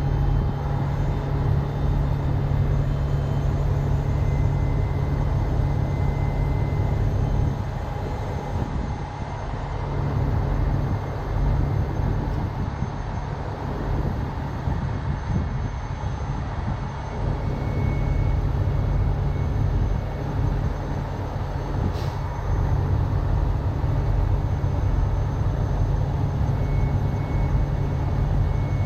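Heavy-duty tow truck's diesel engine running with a steady low rumble, easing off for several seconds in the middle before picking back up.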